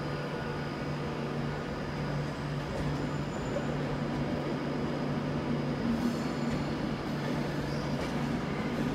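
A train at the station: a steady low hum under rumbling noise, with faint high-pitched wheel squeals coming in about six seconds in.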